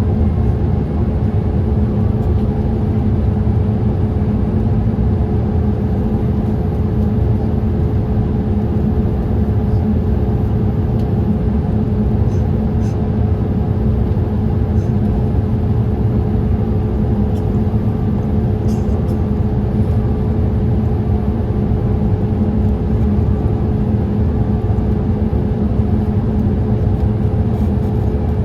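Steady cabin noise of a Boeing 787-8 in flight: a deep, even rush of airflow and engine noise with a constant hum tone over it.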